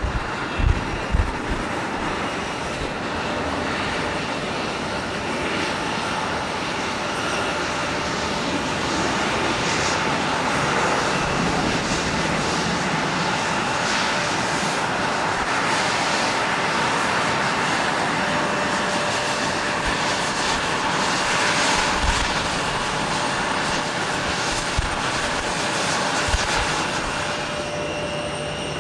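Jet airliner engines passing: a steady rushing noise that swells through the middle and eases near the end, with a faint steady whine joining in the latter half. A few short low thumps are heard at the start and again near the end.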